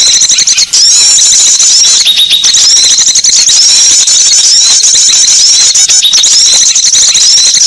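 Small-bird lure recording: dense, rapid, high-pitched chirping and twittering of small songbirds. It breaks briefly a little under a second in, about two seconds in and about six seconds in.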